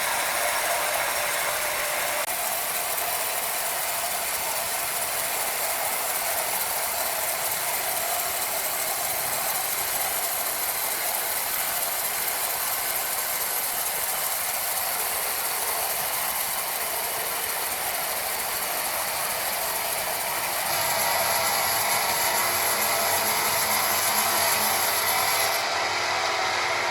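Sawmill machinery running steadily, a dense mechanical noise with little low end; its character changes abruptly about two seconds in and again about three quarters of the way through.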